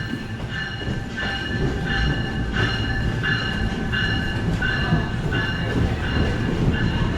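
Train moving on the station tracks: a steady low rumble with high metallic ringing pulses that repeat about every two-thirds of a second, getting slightly louder.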